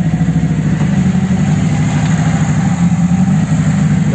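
Car engine running steadily under way, a low even drone, as the car drives on a muddy clay road.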